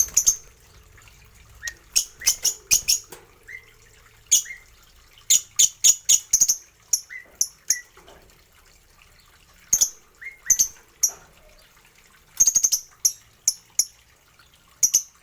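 Small aviary birds chirping: short, shrill calls in quick runs of several, with pauses of a second or two between runs.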